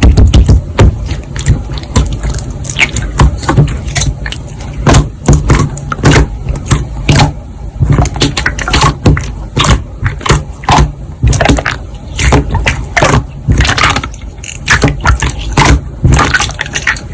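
Slime being squished and pressed by hand, giving a run of irregular wet clicks and pops, a few a second.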